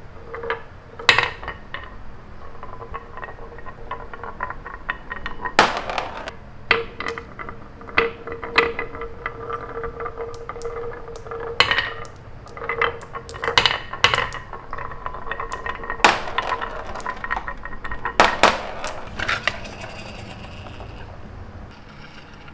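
Small hard toy pieces clinking and knocking together in irregular sharp clicks, over a faint steady hum.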